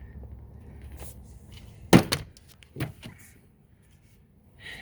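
A few sharp knocks and clicks from handling parts and tools under the hood: two close together about two seconds in and a third just under a second later.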